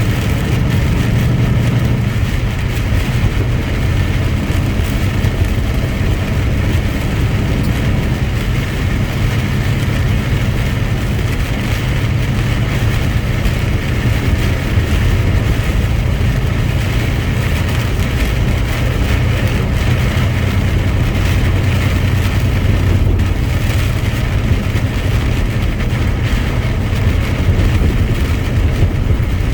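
Steady engine drone and road noise of a truck being driven, heard from inside the cab.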